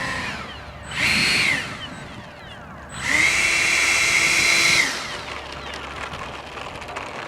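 Electric ducted fan of a FreeWing A-6 Intruder RC jet whining up in two throttle bursts, a short one about a second in and a longer one of nearly two seconds, spooling up and back down each time as the jet is rolled to check that it tracks straight.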